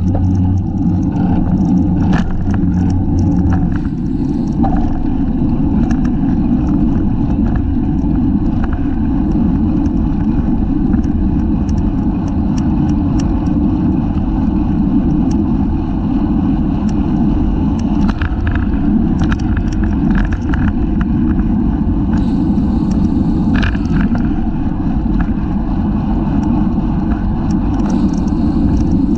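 Wind rushing over a bicycle-mounted action camera's microphone as the bike rides at race speed, a loud steady low rumble, with scattered clicks and rattles from the bike and road throughout.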